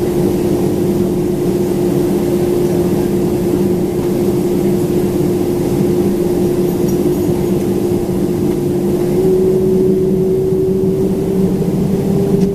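Boeing 767-400ER's jet engines running at low thrust, heard inside the passenger cabin: a steady rumble with a constant hum whose pitch steps up slightly about nine seconds in.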